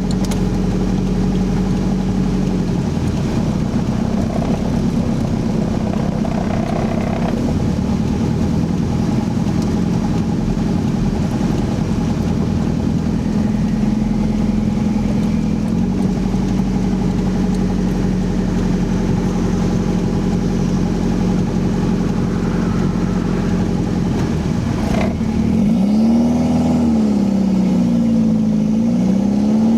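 Toyota 3S-GTE turbocharged four-cylinder with an open downpipe, running on the road at low revs and held out of boost because a loosely refitted lower intercooler pipe blows off under boost. The engine note holds steady, then near the end rises and falls several times as the revs change.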